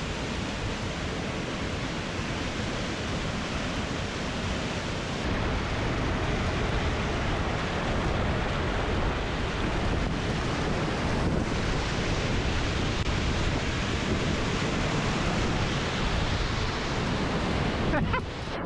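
Small waterfall, two or three metres high, pouring onto rocks and sand with a steady, dense rushing of falling water. It grows a little louder about five seconds in.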